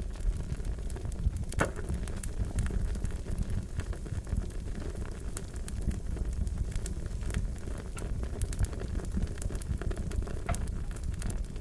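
Wood fire crackling with a steady low rumble and frequent small snaps, and a couple of louder pops, one near the start and one near the end.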